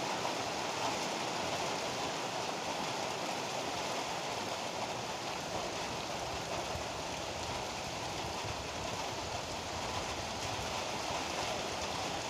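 Heavy rain falling steadily, a dense, even hiss of downpour with no thunder claps.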